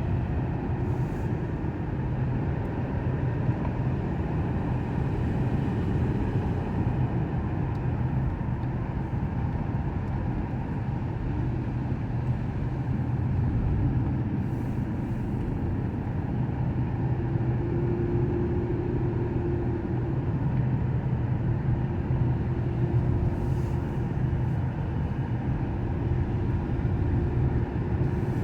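Steady engine and road noise heard inside a car driving uphill, with a low hum running throughout.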